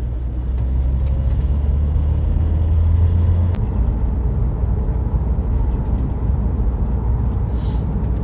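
Car engine and road rumble heard from inside the cabin while driving. A steady low engine drone drops away about three and a half seconds in, with a single click at that moment, and the road rumble carries on.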